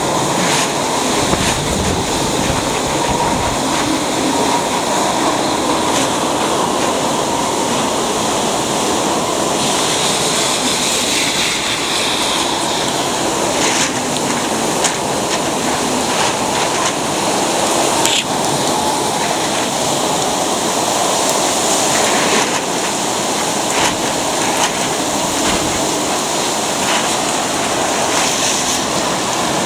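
Typhoon storm noise: a steady, loud rushing of wind and water, with a few brief knocks.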